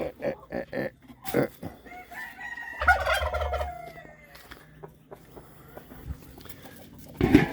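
Chickens clucking, with a rooster crowing about three seconds in, the loudest sound. A few sharp knocks come in the first second or so.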